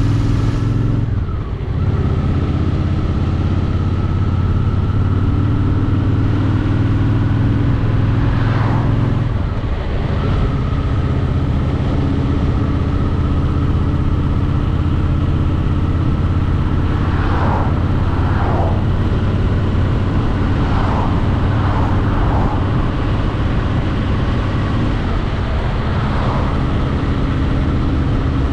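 Honda Shadow VT750's V-twin engine running steadily at riding speed, easing off briefly about a second in and again about nine seconds in. A few short rising-and-falling swooshes pass over it.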